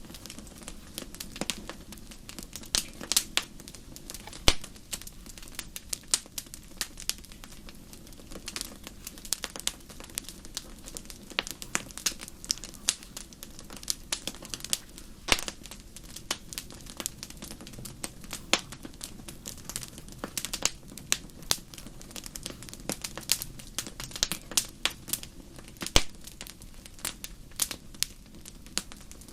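Wood fire crackling: irregular sharp pops and snaps, some louder than others, over a soft low rumble.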